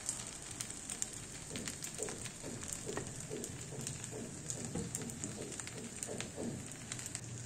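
Vegetable fusilli pasta frying in an iron kadai on a gas burner: a faint, steady sizzle with scattered small crackles.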